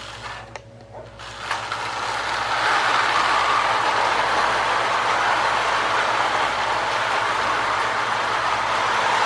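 A Marx 396 tinplate toy train locomotive setting off on three-rail track: a few clicks in the first second, then the running noise of its motor and wheels on the tin rails builds over about a second and settles into a steady whirring rattle.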